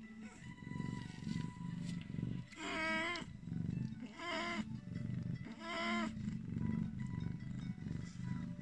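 A young kitten mewing three times, each mew about half a second long and bending up then down in pitch, over a low continuous purr.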